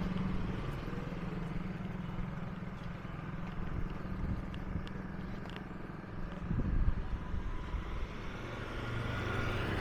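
An engine running with a steady low hum, with a few knocks about six and a half seconds in.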